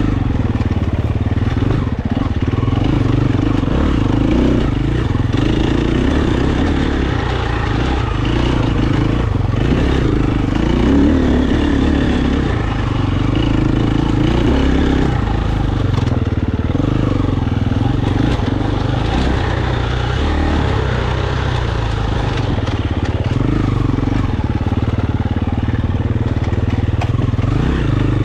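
KTM 350 enduro motorcycle's single-cylinder four-stroke engine running under changing throttle, its pitch rising and falling as the bike picks its way along a rough trail.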